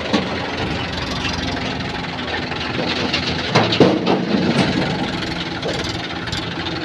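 Diesel engine of road-work machinery running steadily, with a few sharp clanks about three and a half to four seconds in.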